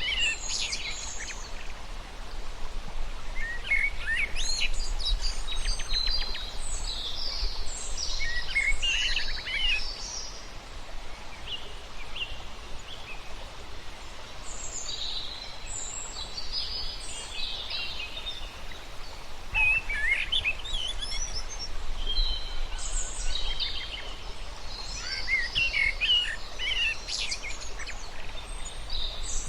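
Several birds chirping and trilling in overlapping bursts, with lulls between the bursts, over a steady background noise.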